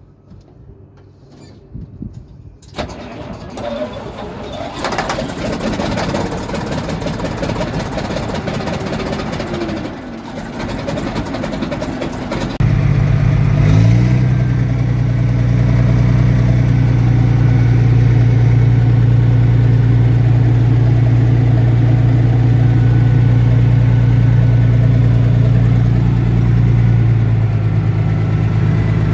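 YaMZ-240 V12 diesel engine in a T-500 bulldozer being started: a rising mechanical whir for about ten seconds, then the engine fires about twelve seconds in, picks up briefly and settles into a loud steady run.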